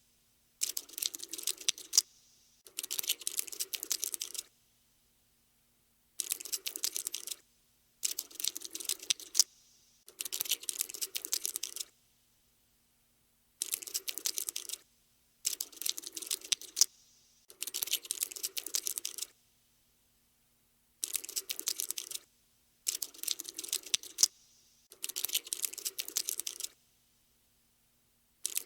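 Cockroach-scurrying sound effect: bursts of rapid clicking, each lasting one to two seconds, repeating roughly every two seconds with short silent gaps between.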